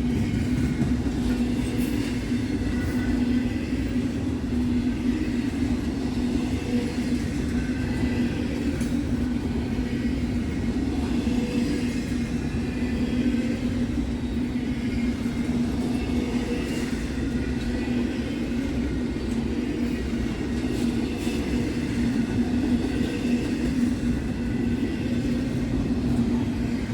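Freight train cars rolling past: a steady rumble of wheels on rail, with faint high ringing tones from the wheels and a few light clicks over rail joints.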